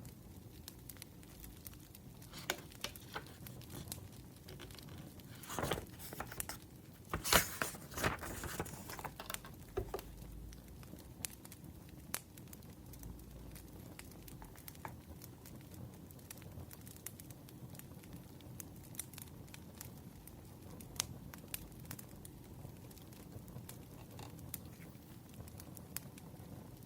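Burning firewood crackling, with scattered sharp pops over a low hiss. A denser, louder spell of crinkling comes about six to nine seconds in.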